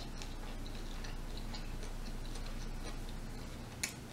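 A person chewing food close to the microphone: small irregular clicking mouth sounds, with one sharper click near the end, over a steady low hum.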